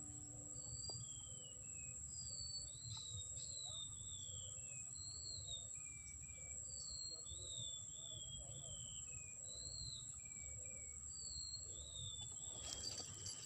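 A bird whistling short, descending notes again and again, over a steady high insect drone and a low rumble of wind or water. A burst of rustling noise comes near the end.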